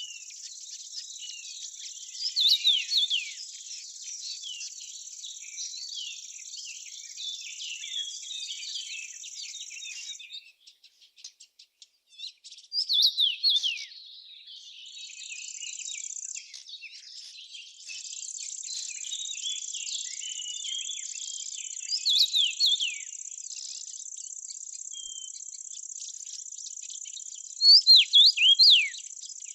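A steady high-pitched insect trill with songbirds chirping beneath it. The trill drops out for a few seconds in the middle. Four times, a quick burst of loud falling bird notes stands out: about two seconds in, near the middle, two-thirds through and near the end.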